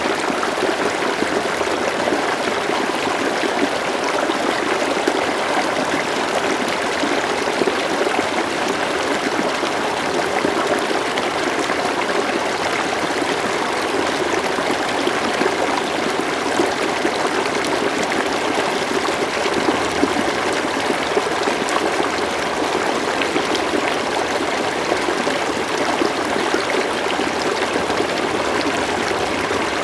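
River water flowing and trickling steadily, a continuous rushing babble with small splashes throughout.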